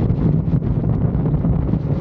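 Wind buffeting the microphone at highway speed on a motorcycle, over a steady low engine drone.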